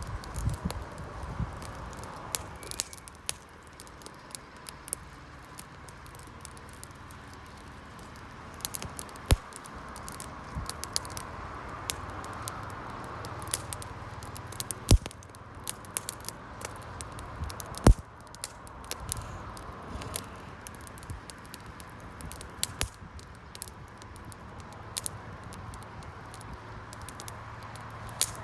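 Wood campfire crackling: irregular sharp pops and snaps over a soft steady hiss of the flames, with two louder pops about halfway through and near two-thirds of the way.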